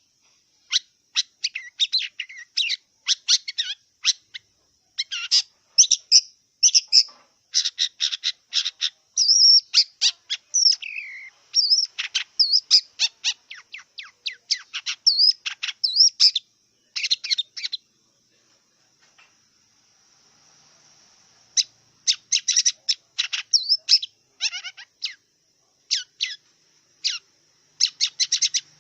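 Long-tailed shrike (cendet) singing: rapid runs of sharp, chattering notes mixed with short whistled slurs. It pauses for about three seconds past the middle, then carries on.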